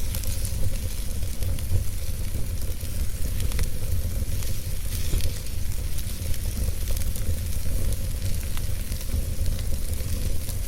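Wood fire burning in a fireplace: a steady low rumble of flames with hissing and frequent small crackles and pops from the burning wood.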